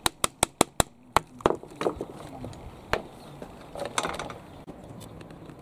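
Light hammer taps driving a small pin out of a fan part: a quick run of about six sharp taps in the first second, then a few slower, spaced taps.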